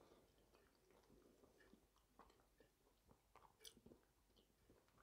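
Very faint chewing of a soft noodle-and-chicken meal, heard as scattered small mouth clicks and smacks.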